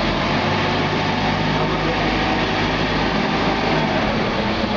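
An engine running steadily at a constant level.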